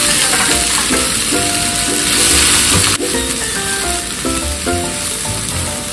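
Sliced red chilies and carrot strips sizzling in hot oil in a wok as a wooden spatula stirs them. The sizzle swells about two seconds in and eases a little about a second later.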